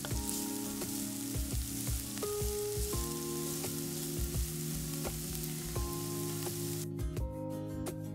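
Food sizzling as it fries in oil in a pan, the sizzle cutting off abruptly near the end. Background music with a steady beat plays under it.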